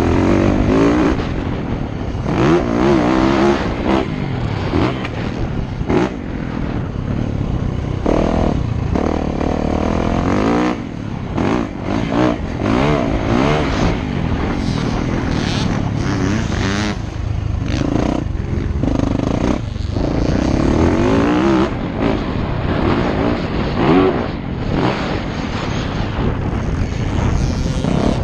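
Motocross dirt bike engine revving up and down repeatedly, its pitch climbing and dropping again and again, with brief dips where the throttle is rolled off.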